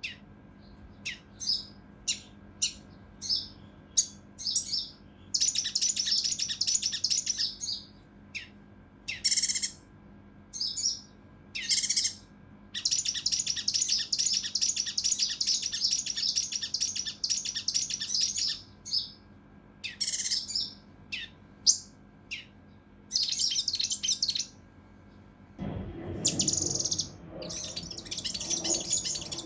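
Kinoi (cucak rante mas) singing agitated, harsh song in short sharp bursts and longer rapid phrases, high-pitched and close together. Near the end a rougher, noisier sound joins in under the song.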